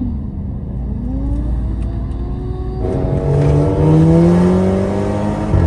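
Tuned Audi TT's engine pulling hard under acceleration, its pitch rising steadily. It gets louder about three seconds in, then dips briefly near the end as it shifts up.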